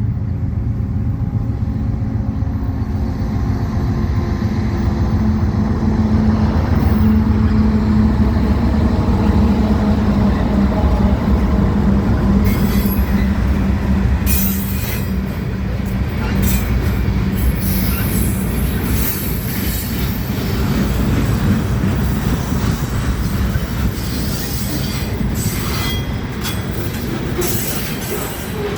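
Freight train passing, led by two BNSF diesel locomotives running with a steady low hum. From about twelve seconds in, the freight cars roll by, their wheels clattering with short high screeches on the rails.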